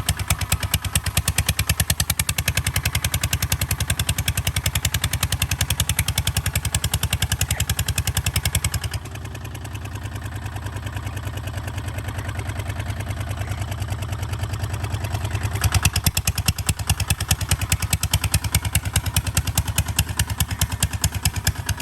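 Kubota ZT 155 DI single-cylinder diesel engine running with a fast, even knocking beat. About nine seconds in the beat turns smoother and quieter for roughly six seconds, then the hard knocking returns.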